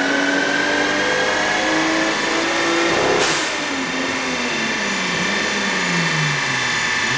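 Turbocharged car engine accelerating under boost, at about 15 psi, its pitch climbing. About three seconds in there is a short rushing hiss, and then the engine winds down with falling pitch.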